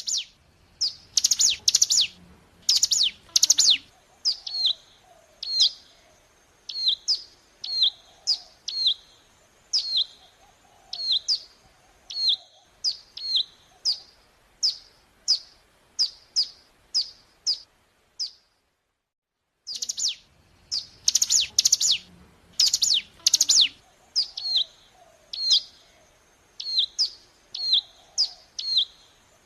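Recorded song of a ciblek gunung (a prinia) played as a lure: a quick burst of loud, harsh high notes, then a steady run of down-slurred chirps. The sequence cuts off about 18 seconds in and, after a second of silence, starts again identically, as a looped track.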